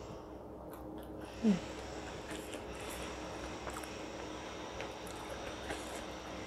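Soft, irregular chewing of rice and crispy batter-fried green chillies, picked up by a clip-on microphone. About one and a half seconds in comes a brief falling hum from the eater's voice.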